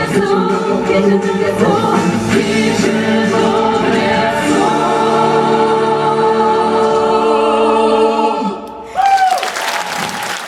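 A vocal ensemble holds the long final chord of a musical-theatre song, then cuts off sharply. A brief noisy burst with a short falling cry follows.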